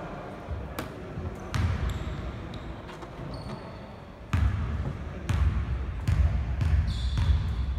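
A basketball bouncing on the court floor during play, a series of irregular thumps, with a few short high squeaks of sneakers on the court.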